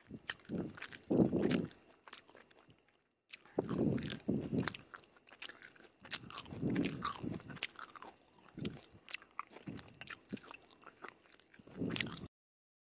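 Someone chewing a mouthful of stir-fried yellow noodles in sauce, in several bouts with small sharp clicks between, cutting off abruptly near the end.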